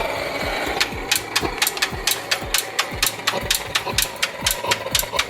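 Old engine running with a sharp, regular knock of about four beats a second that sets in about a second in, over a steady low engine tone.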